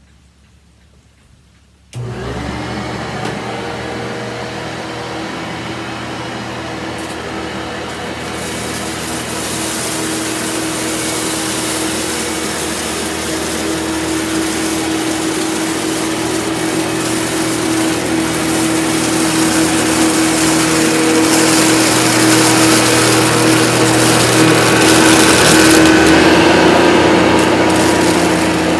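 Vorwerk VK 121 upright vacuum with ET340 powerhead switched on about two seconds in, then running steadily with a constant motor hum, growing gradually louder as it is worked over scattered rice to pick it up.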